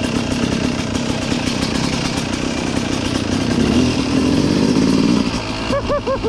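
Yamaha YZ250 single-cylinder two-stroke dirt bike engine running, getting louder partway through, with three quick rises and falls in pitch near the end.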